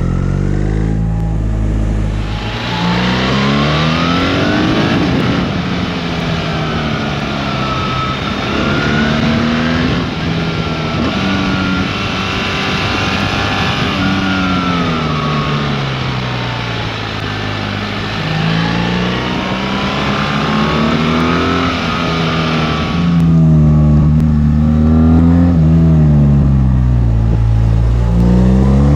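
BMW R 1300 GS boxer twin engine under way, its pitch repeatedly climbing and dropping as the revs rise and fall. Heavy wind rush from a couple of seconds in until about three-quarters of the way through; when it drops away the engine is clearer and climbs again near the end.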